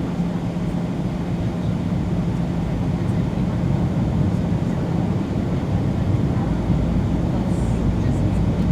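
Cabin noise inside a Boeing 737-800 in flight: a steady rush of airflow and engine drone with a constant low hum. The low rumble grows louder about six and a half seconds in.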